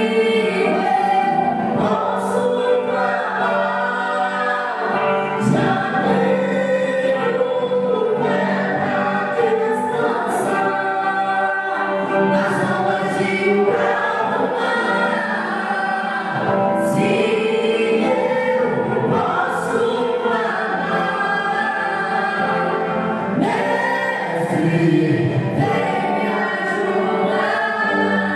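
A choir sings a Portuguese gospel worship song over sustained musical accompaniment, the melody rising and falling continuously.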